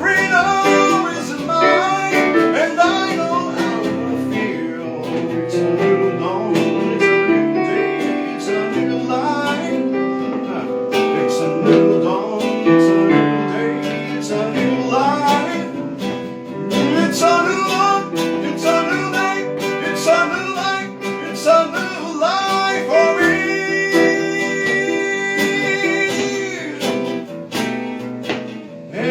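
Live music led by acoustic guitar, with a melody that bends between notes and holds a long note near the end.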